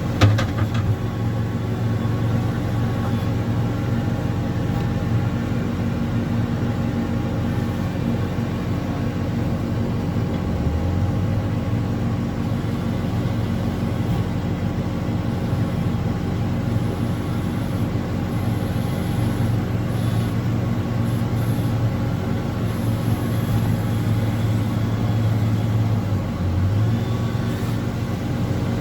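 Diesel engine of an earthmoving machine running steadily under work, its revs rising briefly about ten seconds in and again near the end. A sharp knock sounds right at the start.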